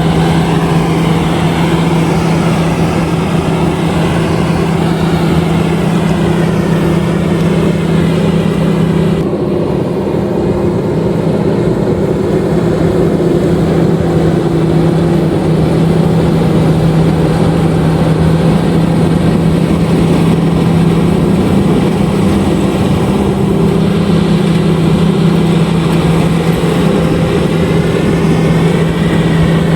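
LOVOL RG130EVO rice combine harvester running steadily, a continuous engine hum with its machinery noise; the higher hiss drops away about nine seconds in and returns later.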